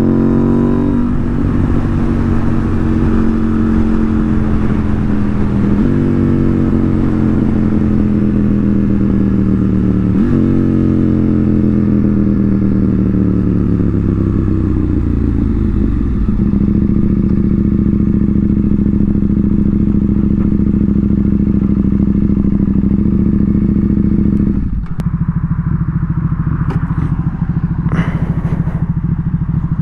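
KTM 890 R parallel-twin motorcycle engine slowing on the road: its revs sag and jump back up with each of two downshifts, then hold steady for several seconds. Near the end the throttle closes, the engine note drops, and a few sharp clicks follow.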